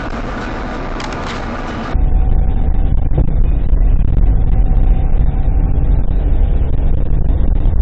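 Car driving, heard from inside on a dashcam: steady road and engine noise, which cuts about two seconds in to a louder recording dominated by a deep, steady rumble.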